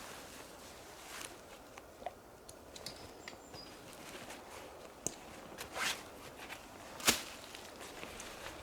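Footsteps on the forest floor with scattered crunches and small clicks, then one sharp knock about seven seconds in.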